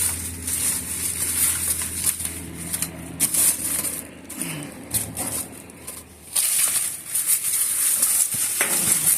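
Steady low drone of a Coast Guard airplane overhead, with rustling and clattering of rubbish being shifted in a dumpster. About six seconds in, a loud steady high hiss comes up and the drone fades.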